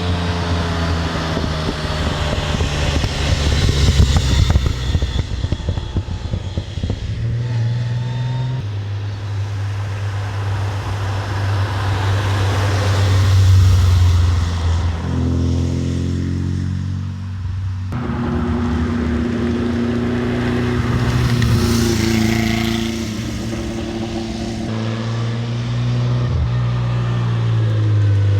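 Classic rally car engines running hard on a special stage. They rev up through the gears, with the pitch climbing and then dropping sharply at the shifts, one steep climb cutting off suddenly about eighteen seconds in.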